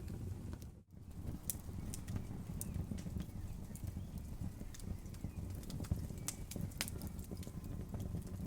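Campfire crackling, with irregular sharp pops and snaps over a steady low rumble of flowing river water. The sound cuts out briefly just under a second in.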